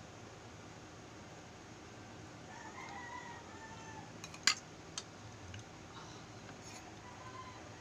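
A faint rooster crowing, one drawn-out call about two and a half seconds in. About a second later come two sharp clicks, the first the loudest sound here, from the balut eggs and dishes being handled on the plate.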